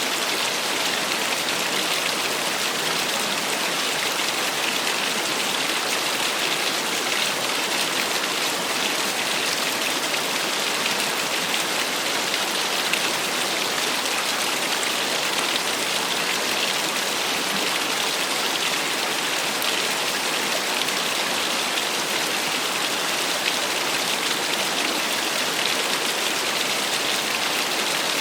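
Small waterfall splashing steadily, an even hiss of falling and spattering water with little low rumble.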